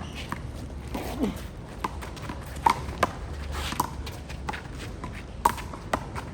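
Handball rally: a rubber handball smacked by hand and bouncing off the wall and ground, a string of sharp slaps at irregular intervals, the loudest about two and a half seconds in and again near the end.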